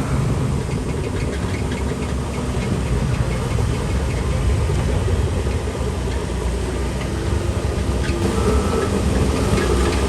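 Bulldozer's diesel engine running steadily, with a heavy low rumble and scattered short knocks.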